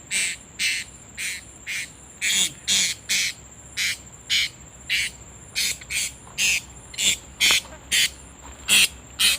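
Blue-crowned hanging parrots (serindit) giving short shrill high-pitched calls about twice a second, over a steady thin high whine.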